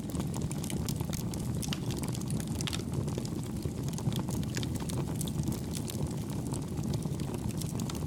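Wood campfire burning: a steady low rumble of the flames with frequent small, soft crackles and pops.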